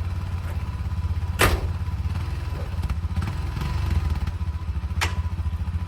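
A vehicle engine running with a steady low rumble, with two sharp knocks, one about a second and a half in and one near the end.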